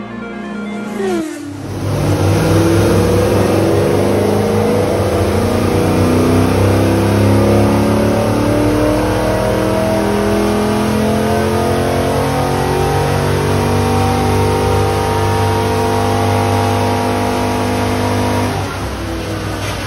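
Holden LS1 5.7-litre V8 with a TSP 224/224 camshaft, headers and full dual exhaust, run under load on a chassis dyno, its pitch climbing steadily for about sixteen seconds until the throttle is lifted near the end. Music with a falling sweep plays for the first second or so before the engine comes in.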